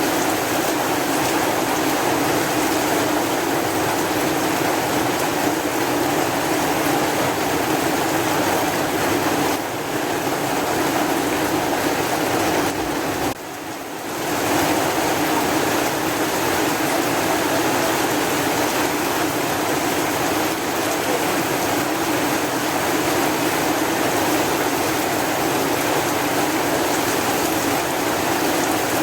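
Steady heavy rain, an even hiss that briefly drops in level a little under halfway through and then comes back up.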